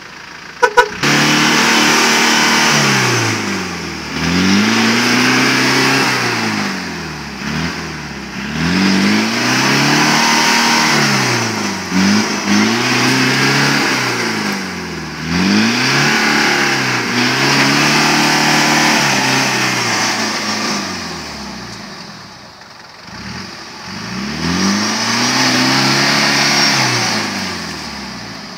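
Land Rover Discovery engine revved up and down about eight times as the vehicle, stuck in the mud, tries to drive out. Two sharp clicks come about a second in, just before the revving starts.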